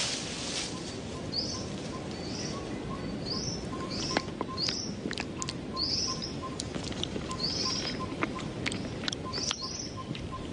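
Birds chirping in a tree canopy, a short high chirp repeated about once a second over a steady outdoor hiss, with scattered sharp clicks.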